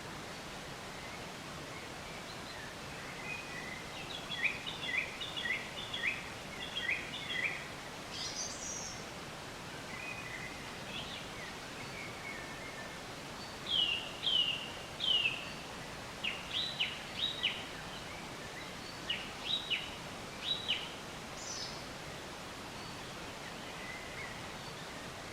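Songbirds singing over a steady outdoor hiss: runs of quick, sharp down-slurred chirps, starting a few seconds in and stopping a few seconds before the end, with a couple of thin, very high notes among them.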